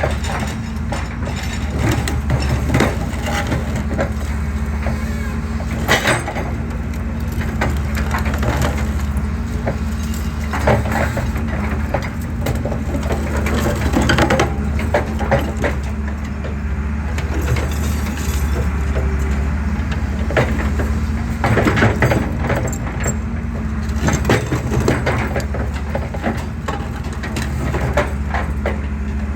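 Excavator's diesel engine running steadily under load while concrete crunches and cracks irregularly as the pillar is crushed, with sharper breaks at intervals.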